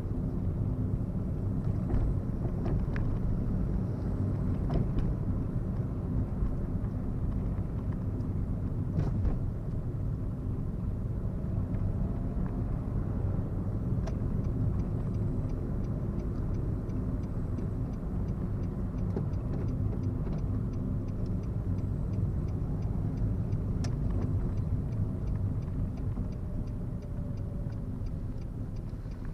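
Steady engine and road rumble inside a moving car's cabin. From about halfway through, a regular run of light ticks joins it, typical of the turn-signal indicator clicking.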